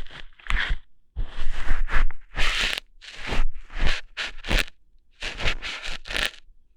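Close-up crunchy, tearing scratches in quick irregular bursts right at the ear of an ASMR microphone, imitating ear hairs being plucked out one by one.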